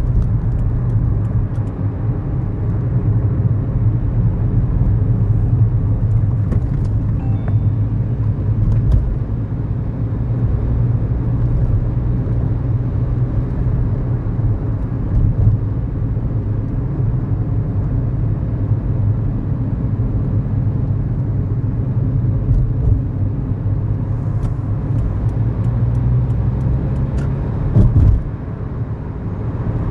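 A 2011 Kia New Morning's 999 cc four-cylinder SOHC engine running steadily under way, heard from inside the cabin with tyre and road noise. Near the end the sound dips briefly, then picks up again.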